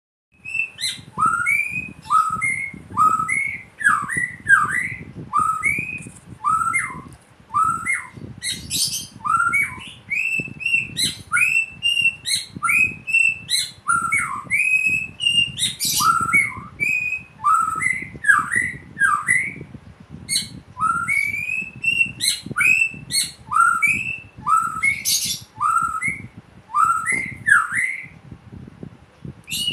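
White-rumped shama singing a continuous run of clear whistled notes, about two a second, many sliding up or down, mixed with sharp higher chips. Its song is filled with imitation of a samyong's song.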